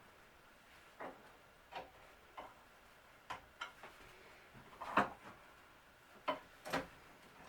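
Irregular light knocks and clicks of wooden cabinet parts being handled, about a dozen scattered taps with the loudest knock about five seconds in.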